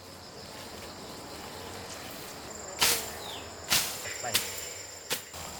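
Insects buzzing in a steady high whine over outdoor background noise, with four sharp knocks in the second half, the loudest about three seconds in.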